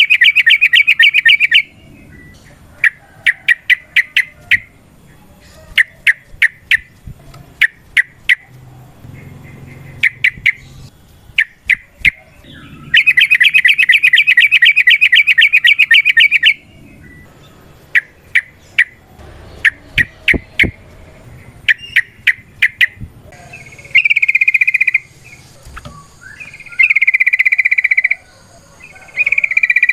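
Yellow-vented bulbul (trucukan) calling in a long, loud, rapid chattering trill at the start and again about 13 seconds in. Between the trills come groups of sharp chip notes, and near the end there are three shorter bursts of chatter.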